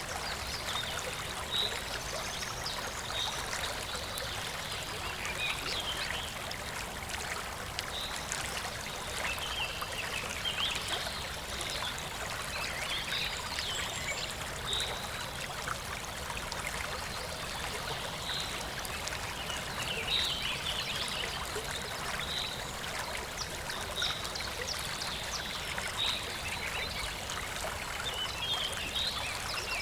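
Shallow stream flowing and trickling steadily, a constant gurgling rush of water, with short high chirps from animals at the water repeating every second or two.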